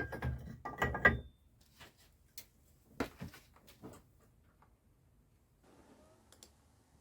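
Workshop handling noises as parts and tools are moved about: a quick run of knocks and clatters in the first second or so, then a few sharp separate clicks.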